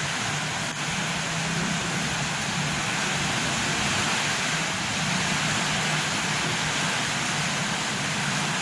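Heavy tropical downpour with strong wind: a steady, dense hiss of rain.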